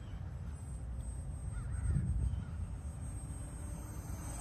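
Wind rumbling on the microphone, with the faint, steady high whine of the distant RC warbird's 2205 2400 kV electric motor and propeller overhead.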